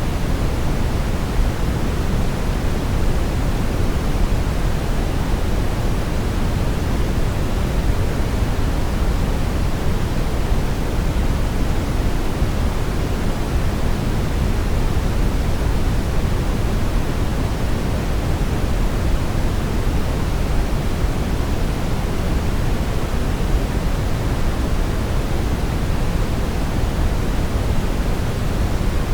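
Steady synthetic brown noise: a continuous, even rumbling hiss weighted heavily toward the low end, with no changes or events.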